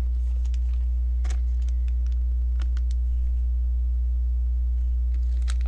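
A steady low electrical hum, with a few faint, scattered clicks and taps of plastic LEGO pieces being handled.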